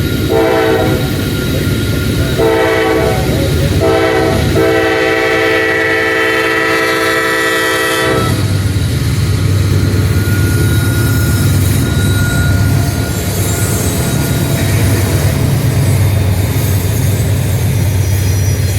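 Diesel freight locomotive horn on a loaded Norfolk Southern coal train sounding a crossing signal: two blasts of about a second each, a short one, then a long one held until about eight seconds in. After that, the locomotive's diesel engine rumbles and the loaded coal cars roll past.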